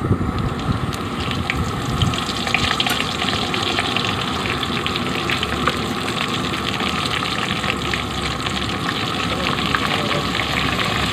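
Food frying in hot oil in a pan: a steady sizzle with scattered sharp crackles and pops.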